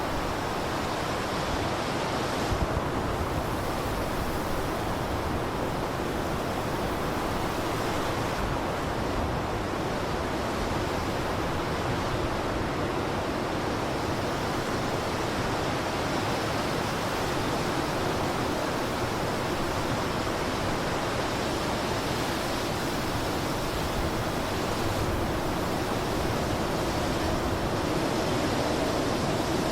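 Blizzard wind blowing steadily, an even rushing noise with a brief small swell about two and a half seconds in.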